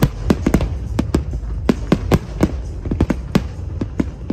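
A fireworks display going off as a rapid, irregular run of sharp bangs and crackles, about three to four a second, over a steady low rumble.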